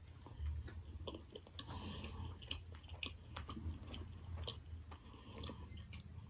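Close-miked chewing of boneless chicken wings, with many small wet mouth clicks.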